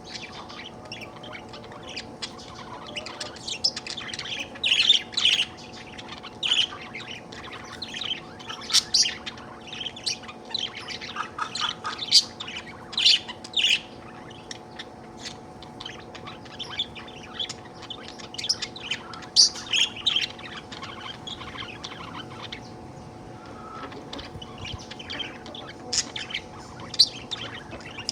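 Pet budgerigar chirping and chattering: many short chirps and squawks in quick, irregular runs, over a faint steady hum.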